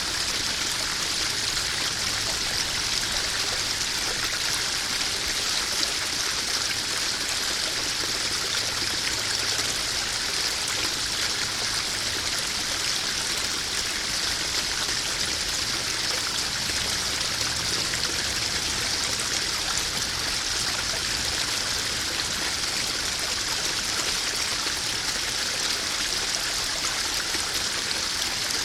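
Small garden waterfall spilling into a koi pond: steady splashing and trickling water.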